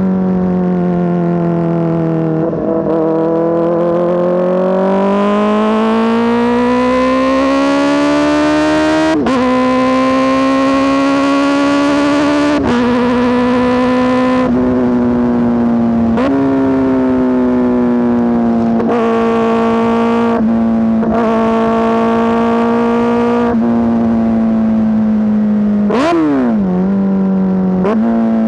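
Kawasaki ZX-4RR's 399 cc inline-four running loud through an SC Project S1 exhaust while the bike is ridden. The note climbs steadily for several seconds as it accelerates, then holds a high, fairly even pitch with a few brief breaks, and a quick sharp rev blip comes near the end.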